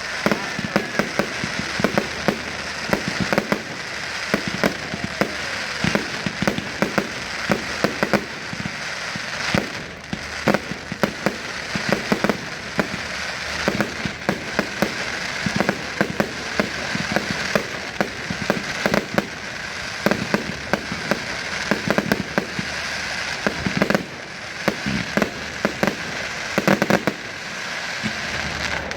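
Fireworks display: a continuous run of sharp bangs from bursting shells, many overlapping, over a steady crackle.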